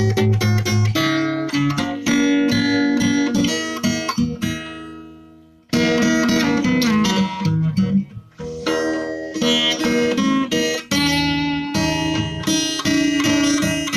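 Acoustic guitar music, plucked notes. It dies away about four to five seconds in and starts again abruptly.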